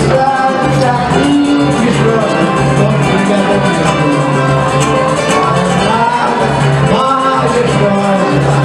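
Live samba music from a small acoustic band: guitars, cavaquinho and pandeiro playing steadily.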